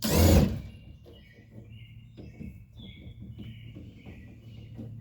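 Birds chirping over and over in the background, after a loud half-second rush of noise right at the start.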